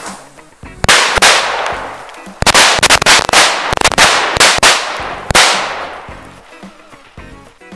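Firecrackers going off: two sharp bangs about a second in, then about a dozen more in quick, irregular succession, each trailing off in a ringing decay. Background music plays underneath.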